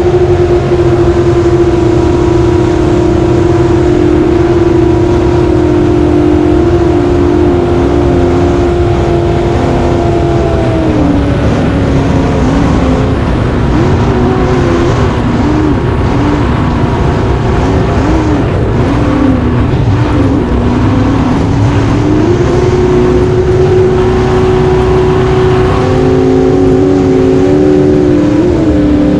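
Racing jet boat engines running hard at high revs. The pitch holds steady, drops and wavers about a third of the way in, then climbs back and holds high near the end.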